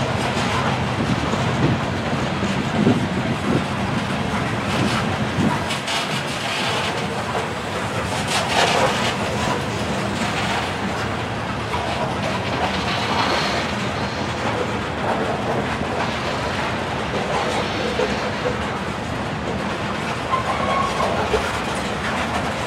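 Freight train of covered hopper cars rolling past, with steel wheels clacking rhythmically over the rail joints in a steady rumble.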